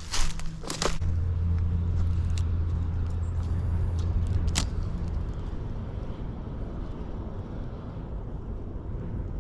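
Low rumble of a motor vehicle going by, starting about a second in, loudest over the next few seconds and slowly fading, with a few clicks and rustles of footsteps near the start.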